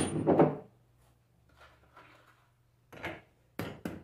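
Alternator parts being handled on a workbench: a loud knock and short rattle at the start, then lighter scrapes and a few sharp clicks near the end.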